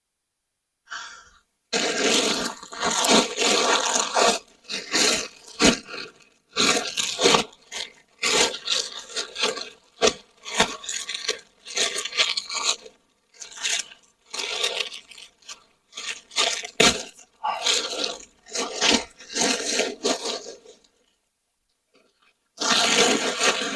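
Loose mulch being poured and spread by hand, in irregular rustling, scraping bursts of a second or two with short pauses between them.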